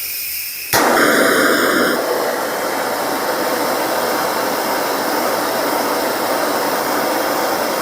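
Steady rushing hiss of a heating tool heating and charring boiled linseed oil on a wooden screwdriver handle. It steps up louder with a brief whistle about a second in, then holds steady.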